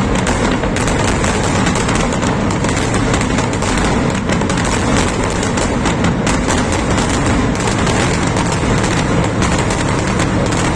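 Fireworks finale: a dense, continuous barrage of overlapping bangs and crackles with no pauses between them.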